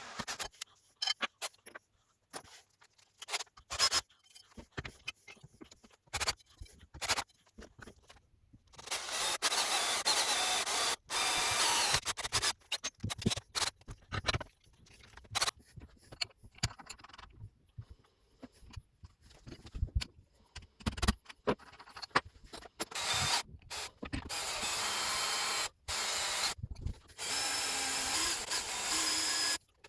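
Metalworking tool noise: scattered clicks and knocks, then two long stretches of steady rasping and scraping, each lasting several seconds and broken by brief pauses.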